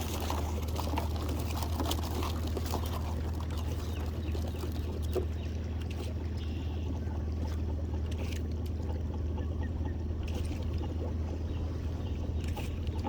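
Small boat's outboard motor running slowly with a steady low hum, over a wash of water noise. A few brief sharper sounds stand out along the way.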